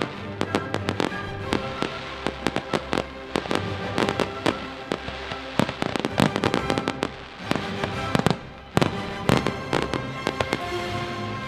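Fireworks going off in rapid, irregular bangs and crackles over music, with a short lull just past halfway before a loud bang sets the barrage going again.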